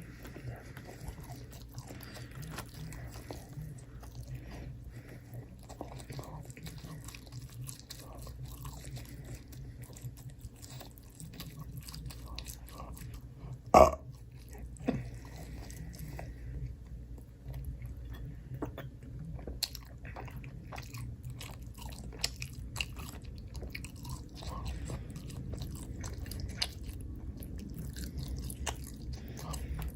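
Close-miked chewing and biting of food, with many small wet clicks and crunches. A sharp loud knock stands out about 14 seconds in, with a smaller one a second later.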